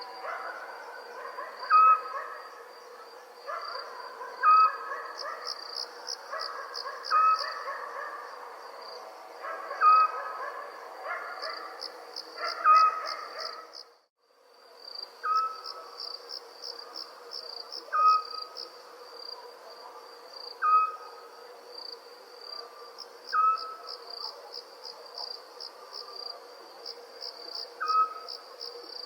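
Crickets chirping steadily in a continuous pulsing trill, with a short owl call repeating about every two and a half to three seconds. The sound drops out briefly about halfway through, then resumes.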